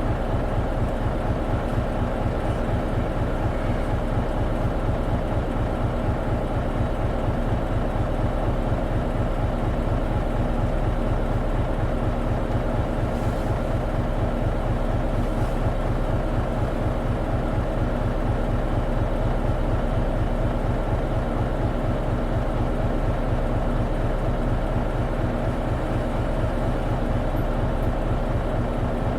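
Isuzu KL-LV280N1 city bus's diesel engine, heard from inside, running steadily with a low, even throb that holds one unchanging pitch throughout.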